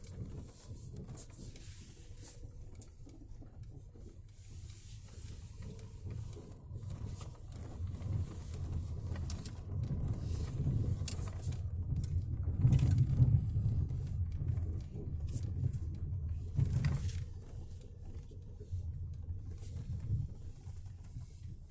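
Truck engine rumbling low, growing louder to a peak a little past the middle and then fading away.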